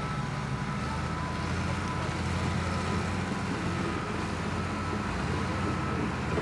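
Heavy bulldozer diesel engines running under load, a steady low drone whose pitch shifts about a second in and again near the end, with faint intermittent higher tones over it.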